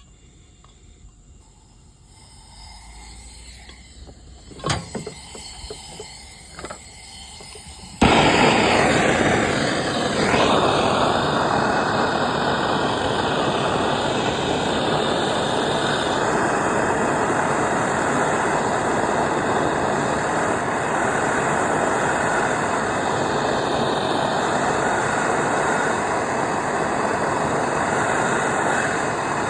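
A few light clicks, then a handheld gas torch lights with a sudden whoosh about eight seconds in and burns with a steady, loud hiss while heating a copper pipe joint for soldering.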